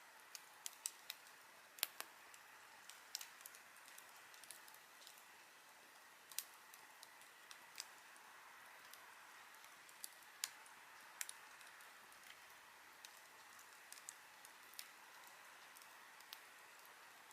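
Campfire crackling: irregular sharp pops and snaps from burning wood, a few close together, over a soft steady hiss.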